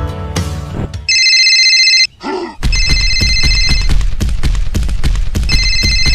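Electronic telephone ring sound effect over background music: a high trilling ring about a second in, then two more ring bursts over a steady beat.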